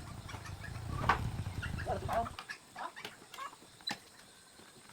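Short, repeated animal calls, bird-like, over a low rumble that stops about halfway through; a sharp click comes a little later.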